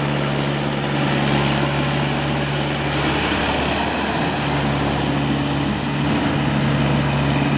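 Tractor diesel engine running steadily while hauling a loaded trolley. Its note wavers briefly in the middle, then settles back to a steady drone.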